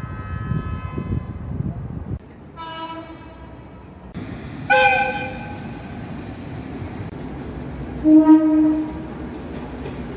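Train horn blasts from several short clips cut together: a longer horn over the rumble of a running train, then a shorter horn, a loud short blast about five seconds in, and a lower-pitched short blast near the end.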